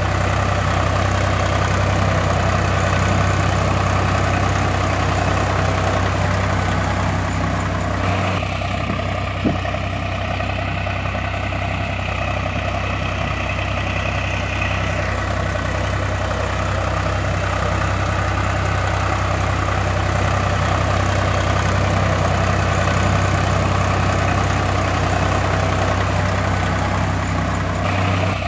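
Heavy diesel machinery engine running steadily with a low, even throb. The sound changes abruptly about eight seconds in and again near the end.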